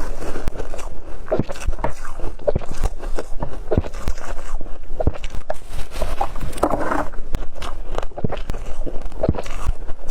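A person chewing shaved ice, with many irregular crunches in quick succession.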